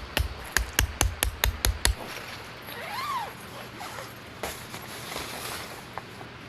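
Tent being pitched: a quick run of about eight sharp clicks in the first two seconds, then a short squeak that rises and falls, and soft rustling of tent fabric.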